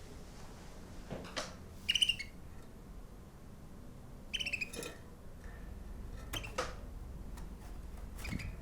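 A bird giving two short chirping calls about two and a half seconds apart, with a few faint clicks and knocks between them.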